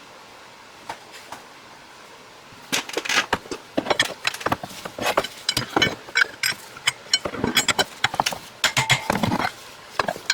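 Irregular clicks, knocks and clatter of hand tools and parts being handled while an engine bay is put back together. They start about two and a half seconds in and carry on until near the end.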